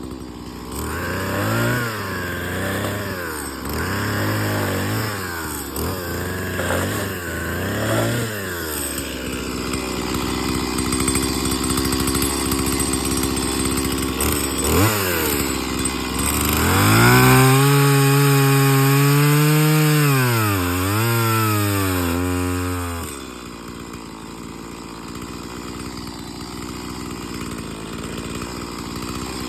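Chainsaw revving up and down several times. It is then held at high throttle for about six seconds, its pitch sagging and recovering as it cuts wood, before dropping back to a lower, quieter idle.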